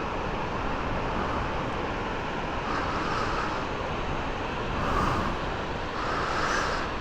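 Steady rushing noise of a large waterfall heard from an overlook, swelling gently a few times.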